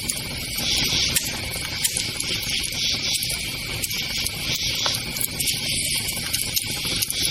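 Wood campfire crackling, with frequent sharp pops over a low rumble of burning. Behind it runs a steady high chirring chorus of night insects that swells and fades.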